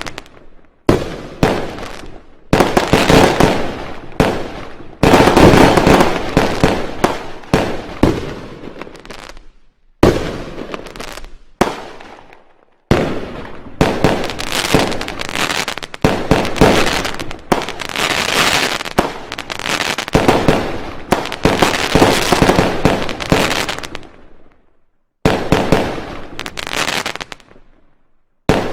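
Fireworks going off: rapid volleys of firecracker bangs and crackling, in a string of separate bursts with short silent gaps between them, some stopping abruptly.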